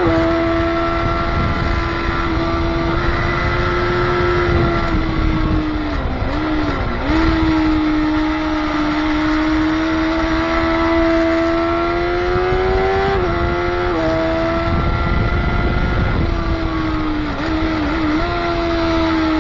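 Motorcycle engine running hard at high revs, heard from the bike on track with loud wind rush. The pitch climbs slowly, drops abruptly at a gear change about thirteen seconds in, and wavers down and back up twice, around six seconds in and near the end.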